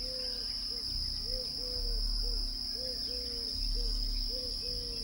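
Steady high-pitched insect trilling, as of crickets, with a low hooting call repeated in long-short pairs about once a second.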